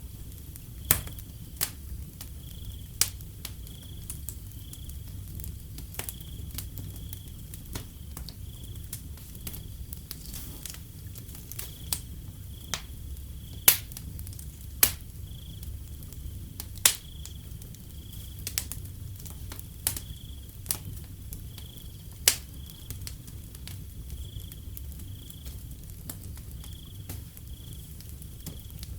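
Wood fire crackling, with sharp irregular pops over a low steady rumble. A cricket chirps in even pulses about once a second.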